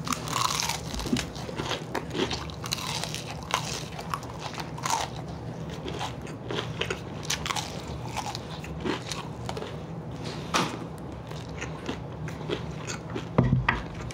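Biting into and chewing whole fried chicken wings: irregular crackly crunches of the fried coating with chewing between them, and a louder low thump near the end.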